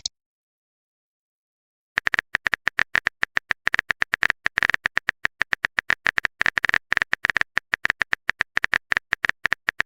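Silence, then from about two seconds in a fast run of short, sharp typing clicks, several a second: a keyboard typing sound effect.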